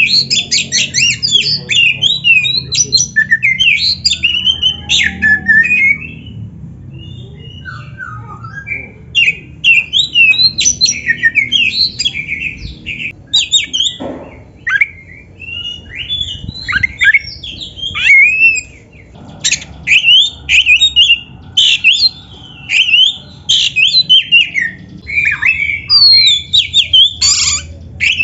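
Oriental magpie-robin (kacer) singing a loud, rapid, varied song of sweeping whistles and harsh notes in dense bursts, with a couple of short pauses. This is the full-repertoire song used as a training master for captive birds.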